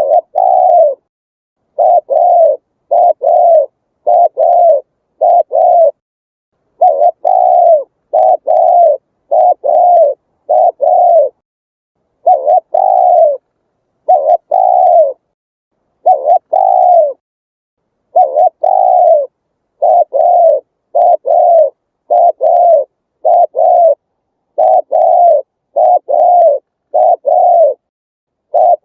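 Spotted dove cooing: a long, loud run of short, low coos, about one a second, each dipping slightly in pitch, with brief pauses between the phrases.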